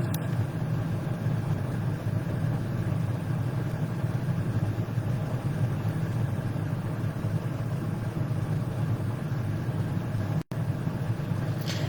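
Steady low background hum with no speech, unchanging throughout, with a momentary dropout in the sound about ten and a half seconds in.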